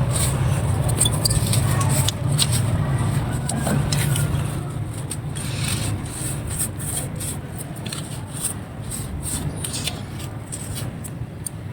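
Dry clay crumbling under light pressure: many small crisp crackles and snaps. A low rumble under it is strongest in the first half and fades after about five seconds.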